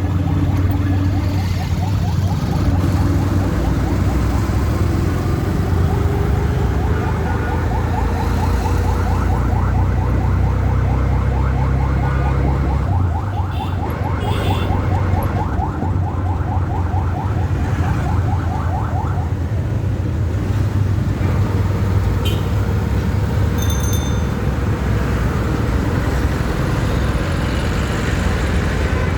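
Steady low rumble of city vehicle traffic. Over it, for the first two-thirds, runs a fast-pulsing mid-pitched sound that stops about 19 seconds in.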